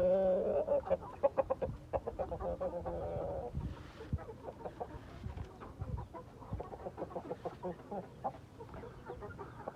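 Chickens clucking: a quick run of clucks in the first three seconds or so, then scattered softer clucks.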